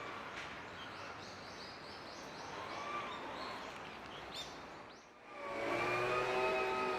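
Steady hiss of rain and city background with a quick run of small bird chirps about one to three seconds in. Near the end, a louder steady sound of several held tones swells in, like a distant siren.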